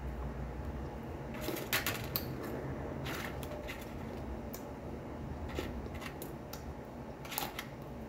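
Dry, crunchy biscuits being bitten and chewed close to the microphone: a quick cluster of crisp crackles, then single crunches every second or so, with a rustle of the plastic biscuit packet as she reaches for more.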